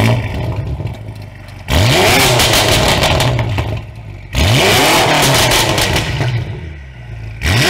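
BMW M5 F90's twin-turbo V8, breathing through an Fi exhaust with catless downpipes and an X-pipe, revved hard four times while standing. Each rev shoots up and falls away slowly, with crackling and popping on the way down.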